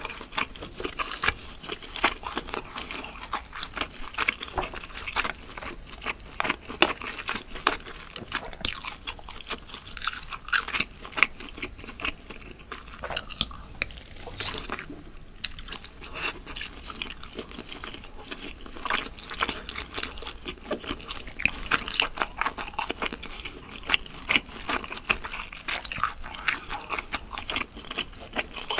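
Close-miked chewing and biting of sauce-glazed grilled chicken skewer meat: a steady run of small, irregular wet clicks and smacks.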